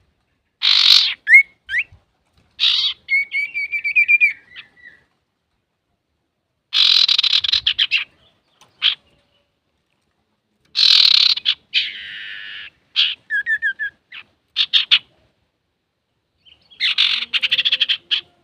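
Male common iora (cipoh) singing: harsh rasping chatters alternate with short whistled trills, in bursts separated by pauses of a second or two.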